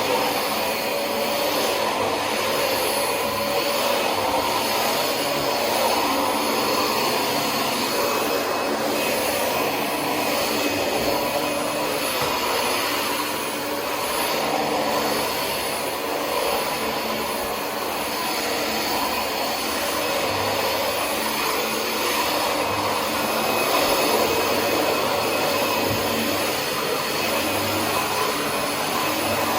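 Dyson DC25 ball upright vacuum cleaner running steadily with a whooshing, whining motor note, its sound swelling and easing a little as it is pushed back and forth over the floor.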